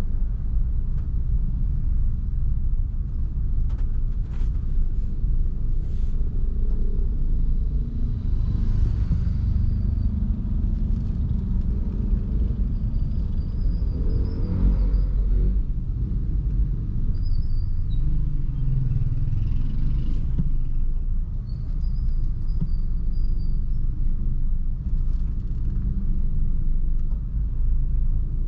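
Low, steady rumble of a car's engine and tyres while driving, swelling briefly about halfway through. Faint high chirps come through a few times.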